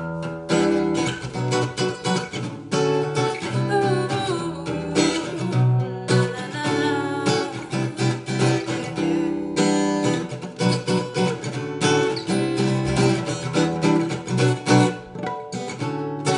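Music: an acoustic guitar strummed in a steady rhythm, an instrumental break between sung verses of a song.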